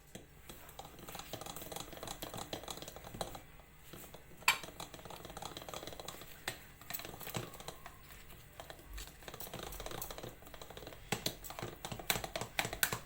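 Cake batter being beaten by hand in a bowl: a utensil ticking and clicking rapidly against the bowl's sides, with one sharper knock about four and a half seconds in.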